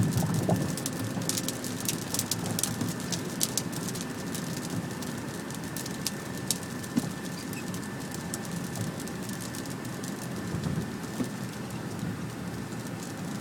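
Rain pattering on a car, with scattered sharp drop ticks, thickest in the first few seconds, over a steady low rumble.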